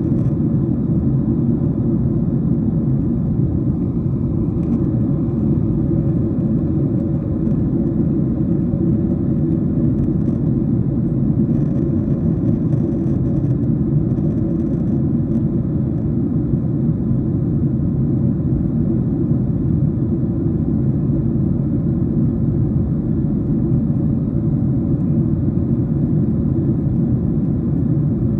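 Steady low rumble of a Boeing 737-700's cabin in flight: engine and airflow noise heard from a window seat, with a few faint ticks about halfway through.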